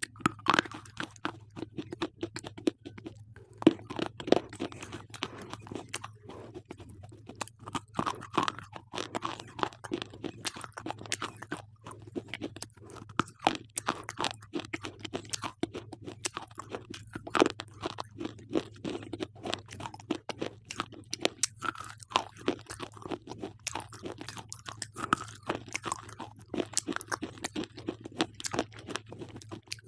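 Slate pencils being bitten and chewed close to the microphone: a dense, irregular run of sharp crunches and clicks, over a faint steady low hum.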